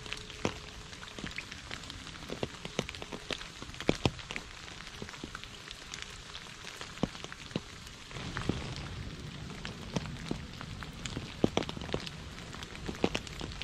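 Rain falling steadily on puddles: a continuous patter with many individual drops striking sharply and distinctly. About eight seconds in, a low rumble joins and the sound grows a little louder.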